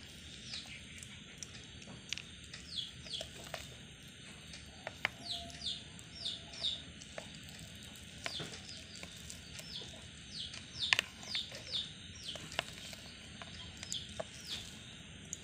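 Faint bird chirping: short falling chirps, often two or three in quick succession. A few light clicks of a knife against the plate come through as the noodle omelette is cut into slices.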